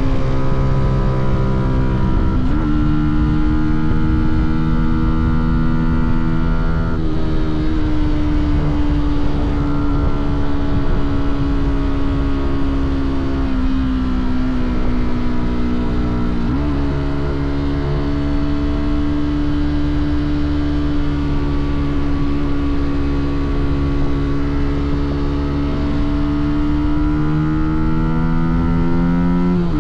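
Fantic Caballero 125's single-cylinder four-stroke engine and exhaust running under way. The revs hold mostly steady, sag slowly, and jump up sharply a few times as gears change.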